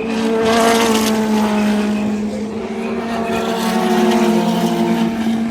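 Indy NXT Dallara IL-15 race cars' turbocharged four-cylinder engines running at speed, several engine notes overlapping. The sound swells about half a second in and again around four seconds as cars pass.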